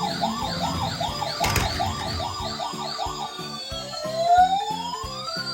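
Emergency-vehicle siren yelping in quick up-and-down sweeps, about three a second, then switching to a slow rising wail near the end, over background music with a steady beat. A single sharp knock sounds about one and a half seconds in.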